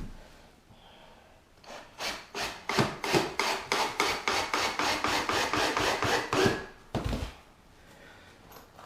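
Rapid, rhythmic rasping strokes on wood, about four or five a second for some five seconds, followed by a single low thud.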